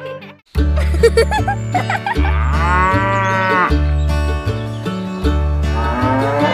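A cow mooing once, a long drawn-out call about two and a half seconds in, over upbeat background music with a repeating bass line.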